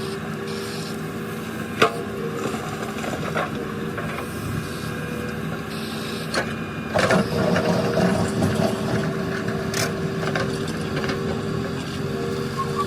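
A diesel engine of heavy machinery running steadily at a constant pitch, with several sharp knocks and, about seven seconds in, a louder stretch of rumbling and clatter.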